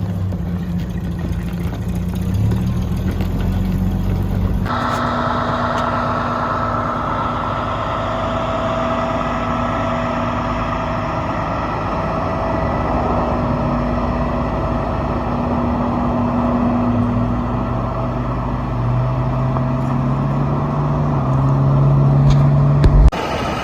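Vehicle engine running steadily, with an abrupt change in its sound about five seconds in and the engine note stepping up in the last few seconds.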